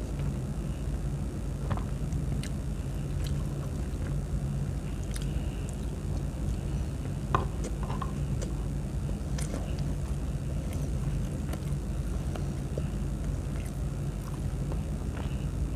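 A person chewing and biting food, with short wet clicks and crunches every second or so, the sharpest about halfway through. A steady low hum runs underneath.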